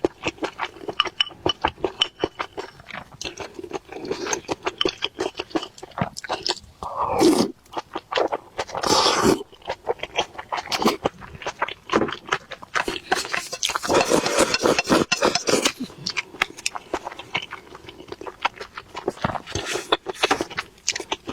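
Close-miked chewing and wet mouth sounds of someone eating: a dense run of irregular quick smacks and clicks, with a few longer noisy stretches in between.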